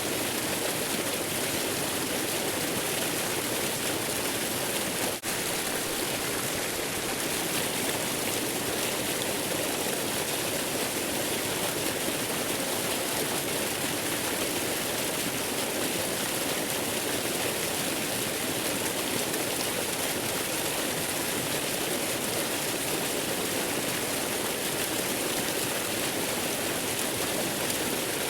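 Waterfall: steady, unbroken rushing water, with a brief momentary dip in level about five seconds in.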